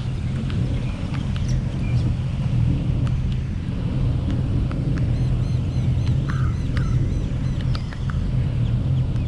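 A car driving: steady low rumble of road and engine, with scattered light ticks and a couple of short chirps about six and seven seconds in.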